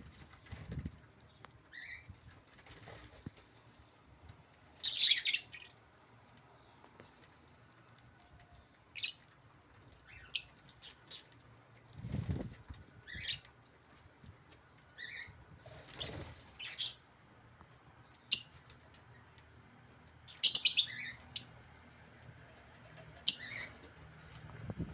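Lovebirds giving short, sharp, high chirps at irregular intervals every few seconds, with a few wing flutters among them.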